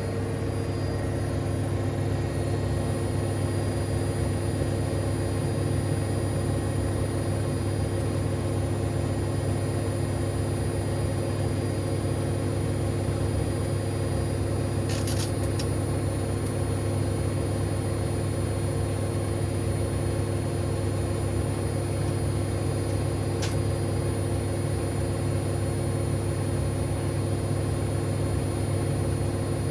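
Siemens Extraklasse XLs 140 A front-loading washing machine running with a steady, unbroken motor hum, with two faint ticks about halfway through.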